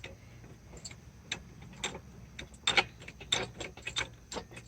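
Light metal clicks and clinks at an uneven pace from an engine stand's mounting arms and bolts being adjusted and fitted.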